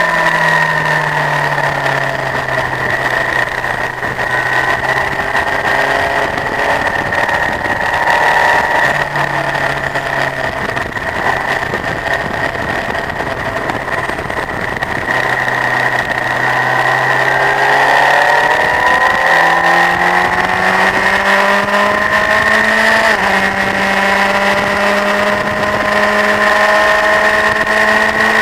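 Honda CBF1000's inline-four engine running at track speed: the revs fall as the bike slows, hold, drop again through the middle, then climb with two upshifts, one about two-thirds of the way in and one after that.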